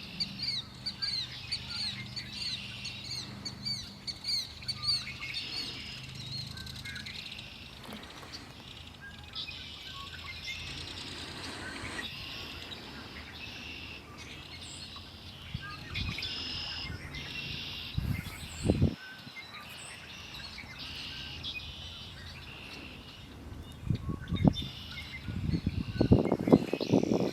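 Several wild songbirds singing and chirping, opening with a quick run of high repeated chirps and going on with varied song phrases. Loud low rumbling thumps break in about two-thirds of the way through and again near the end.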